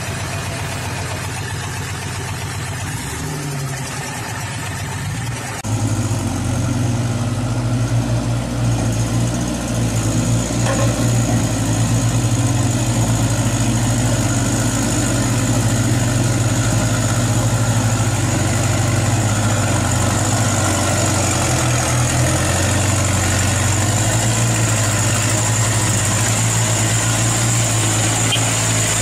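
An engine running steadily, with a low hum that becomes louder about six seconds in.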